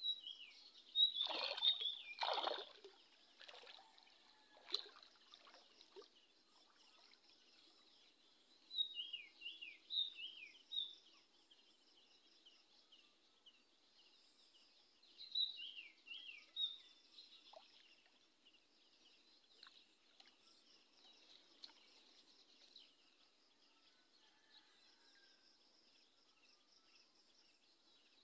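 A bird singing short phrases of quick falling chirps, repeated every few seconds over a steady high insect drone. About a second in, two loud sloshes of water from someone wading through the flooded field.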